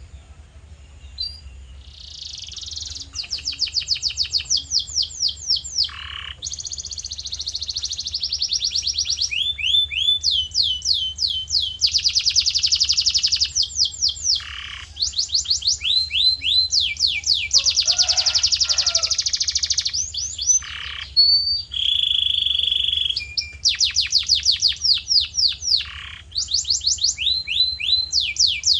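Male canary in full song: long runs of fast repeated notes and rolling trills, switching to a new phrase every second or two, with an occasional deeper swooping note.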